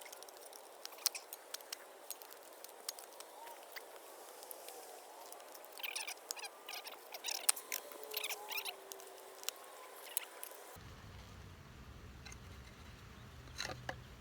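A package of Italian honeybees buzzing with a faint wavering hum, under scattered taps and clicks from handling. A run of short hissing squirts near the middle fits a spray bottle of sugar water being spritzed on the bees. A low rumble comes in about ten seconds in.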